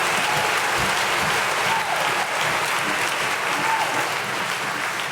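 Audience applauding steadily in a theatre.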